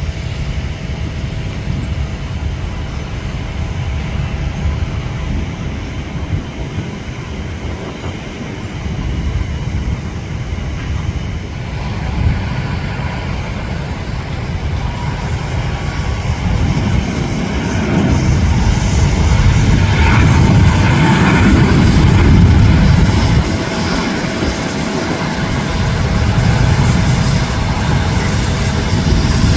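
Jet engines of an Airbus A380-800, a deep rumble heard at a distance that grows louder about halfway through and is loudest a few seconds before the end.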